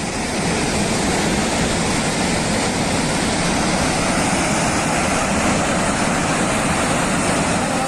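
Loud, steady rush of floodwater pouring through a failed dam.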